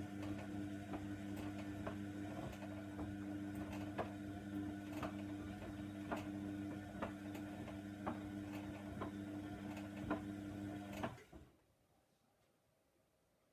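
Hoover Nextra washer dryer running with a steady low hum and a light click about once a second. The hum cuts off suddenly about eleven seconds in.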